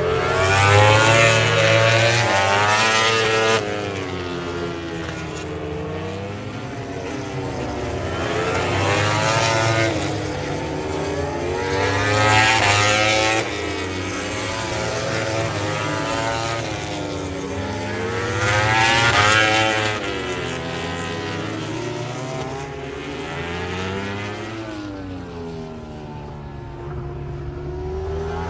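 MotoGP racing motorcycles passing on the track one after another, engine notes rising and falling in pitch as they go by, with several louder passes.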